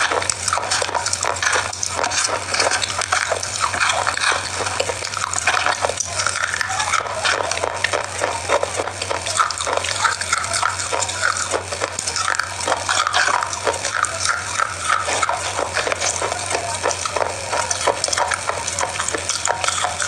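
Biscuits being crunched and chewed right at the microphone, a continuous crackle of small bites and chews over a low, steady hum.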